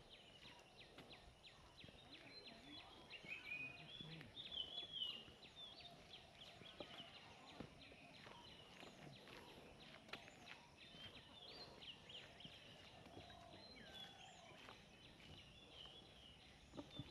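Faint birdsong: many short chirping and warbling calls, busiest a few seconds in, over a low background hiss with scattered soft clicks.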